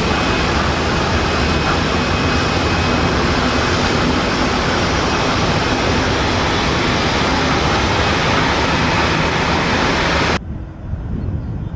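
Jet airliner engines, a loud steady roar with a faint high whine, which stops abruptly about ten seconds in, leaving a quieter low wind rumble.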